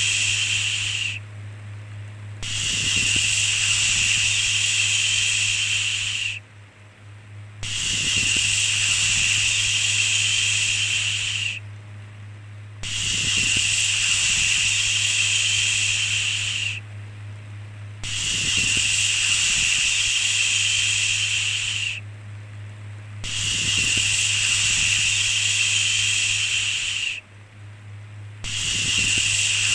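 A long 'shhh' shushing sound, held about four seconds at a time and repeated every five seconds or so with a short pause between, over a steady low hum.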